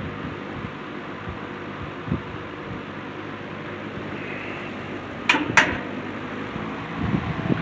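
20-inch C&H Wizard box fan running steadily on a replacement motor, a constant whir of blades and motor hum. Two sharp clicks about a quarter second apart come about five seconds in, and a low buffeting rumble starts near the end.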